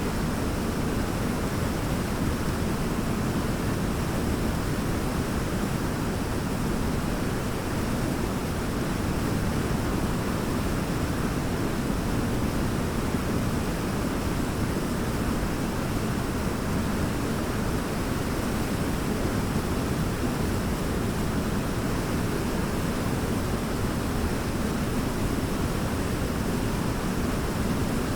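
Large waterfall, a steady, deep roar of falling water with no breaks or changes.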